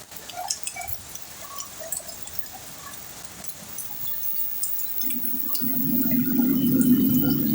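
Heavy rain falling, with many small drips and splashes. About five seconds in, a louder low hum with a steady pitch comes in and grows louder toward the end.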